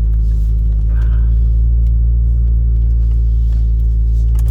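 Ford Focus ST engine running steadily with a deep, even exhaust rumble, no change in revs.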